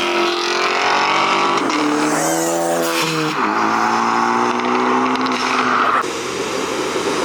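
A car engine accelerating hard, its note climbing, dropping briefly about three seconds in as with a gear change, then climbing again. The sound drops off suddenly about six seconds in.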